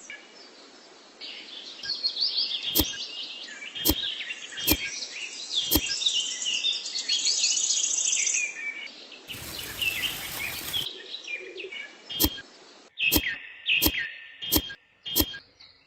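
Small birds chirping and twittering, broken by sharp clicks: four in the first half and five more in quick succession near the end. A short burst of hiss comes about two-thirds of the way through.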